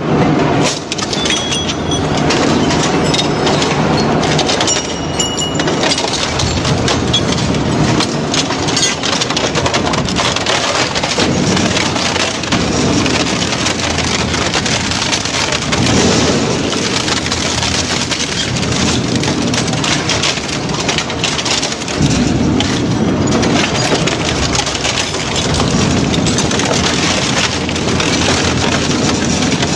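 Metal baler compressing scrap metal: a continuous loud crackling, crunching noise, with lower rumbling swells every few seconds.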